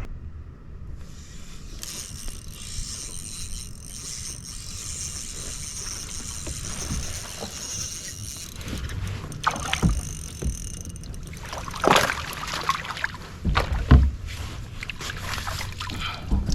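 Fishing kayak on the lake: a steady wash of water and movement noise, with a few sharp knocks against the plastic hull from about ten seconds in.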